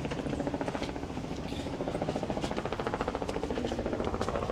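Helicopter rotor beating in a fast, even pulse that holds steady.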